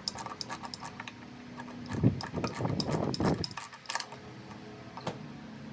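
Light clicks, taps and rubbing of small parts and tools being handled while the leaf blower's ignition coil is fitted, with a louder stretch of scraping about two seconds in.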